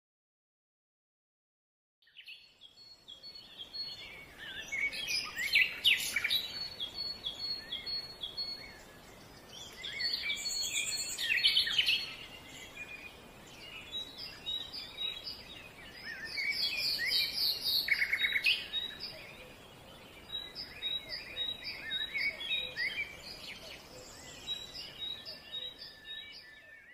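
Several wild birds calling, a busy chorus of short high chirps and trills that comes in louder bursts over a faint steady outdoor hiss. It starts about two seconds in, after a silent gap.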